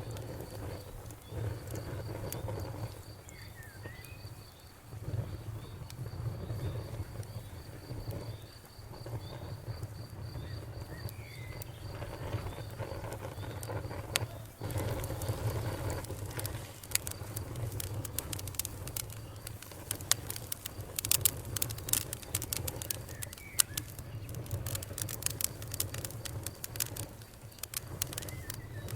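Campfire crackling and popping over a steady low rumble, with the pops coming thick and sharp in the second half. A high, evenly pulsed insect chirp runs through the first half, and a few short calls sound now and then.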